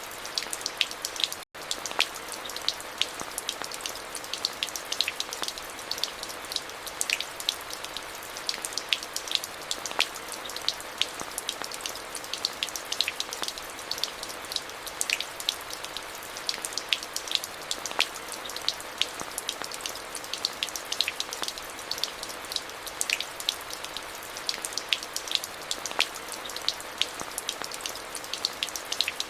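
Steady rain with many individual drops ticking sharply on a nearby surface, over an even hiss. The sound cuts out for an instant about a second and a half in.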